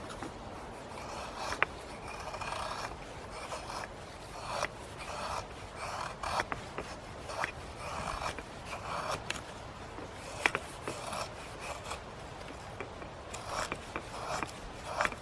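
Intermittent scraping and rubbing of hand work, with a few sharp clicks, the sharpest about a second and a half in and again about ten seconds in.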